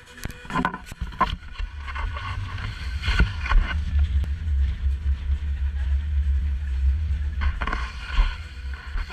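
Low vehicle rumble that builds up over the first couple of seconds, with scattered sharp knocks and clicks.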